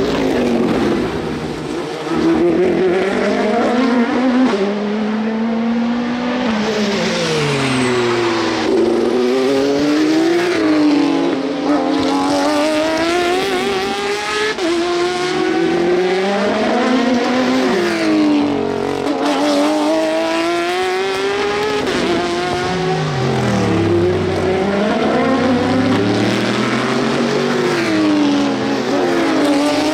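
Several endurance race cars passing one after another, their overlapping engine notes dropping in pitch as they brake and downshift, then rising again as they accelerate away.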